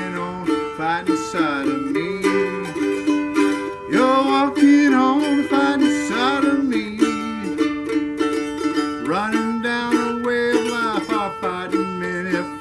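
A country song played on a plucked string instrument, the notes bending and sliding.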